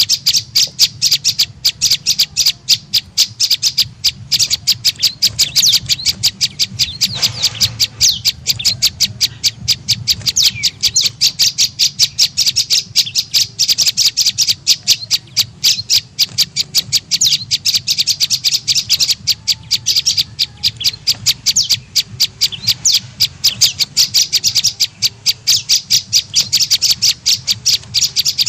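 Prenjak lumut calling: a fast, unbroken run of sharp, high chipping notes, several a second, used as a lure call to draw the birds in. A faint steady low hum lies underneath.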